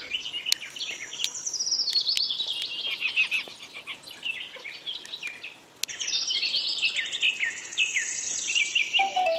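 Birds chirping and singing: quick runs of high notes that fall in pitch, one run after another, with a brief lull about five and a half seconds in.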